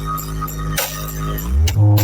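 Electronic dance music played through a large outdoor sound system: deep held bass notes and sparse cymbal hits. About one and a half seconds in, a rising sweep leads into a sudden, much louder bass drop near the end.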